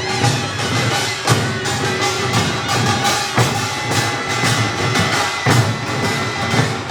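Korean pungmul band playing: drums and small gongs beating a dense rhythm, with a taepyeongso (Korean double-reed shawm) holding a long high note over it.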